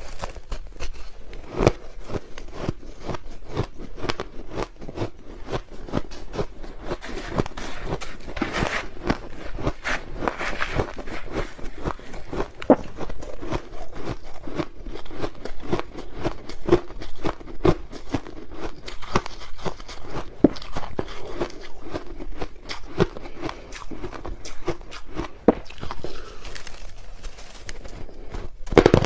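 Crushed ice being bitten and chewed: dense, rapid crunching and cracking with no let-up.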